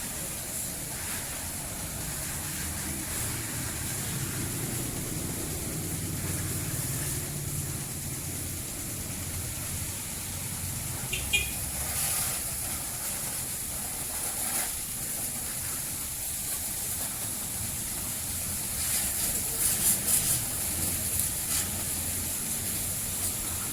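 Steady hiss of water spraying onto a motorcycle being washed, over a low machine hum, with a brief click about eleven seconds in and a few louder bursts of spray near the end.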